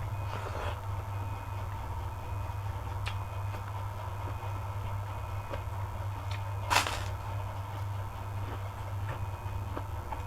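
Eating sounds over a steady low hum: a few small clicks and one sharp crunch about seven seconds in.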